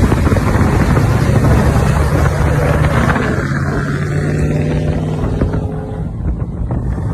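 A vehicle engine running loudly at a steady low pitch, easing off a little in the second half.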